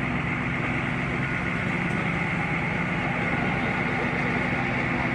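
A heavy engine running steadily at an even pace, with a low rumble and a constant hum.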